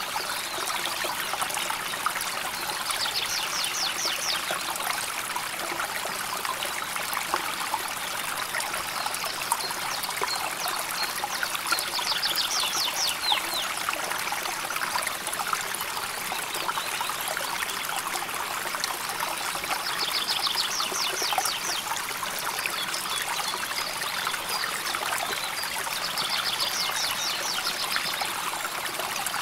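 Shallow river flowing steadily, a constant babbling trickle of water. A short, high, rapid trill rises above it four times, roughly every eight seconds.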